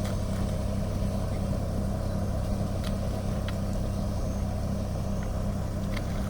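John Deere tractor's diesel engine running steadily with an even hum, with a few faint clicks.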